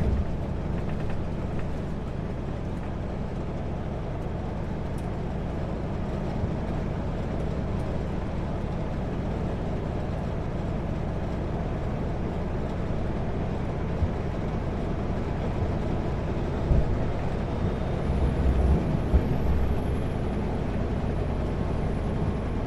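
Kenworth W900L semi-truck cruising at highway speed: a steady drone of engine and road noise. A few low thumps come in about three-quarters of the way through.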